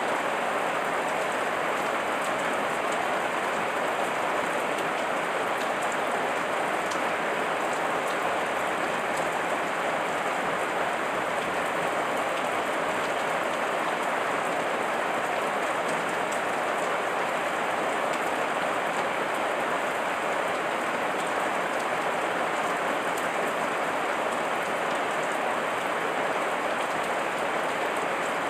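Heavy rain falling, a steady even hiss with faint scattered drop ticks.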